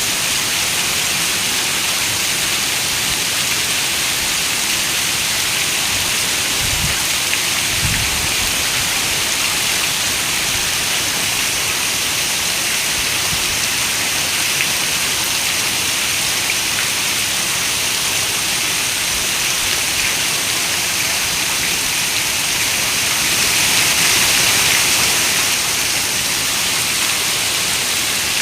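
Steady heavy rain: a dense, even hiss of countless drops. There are two brief low thuds about a quarter of the way in, and the rain swells louder for a couple of seconds about two-thirds of the way through.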